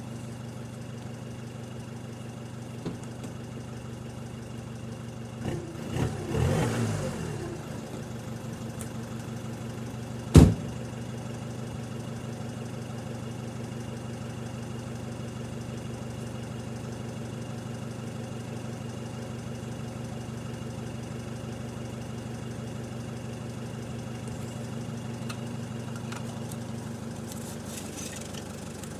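Car engine idling steadily with an even hum, broken by a short louder burst about six seconds in and a single sharp knock about ten seconds in.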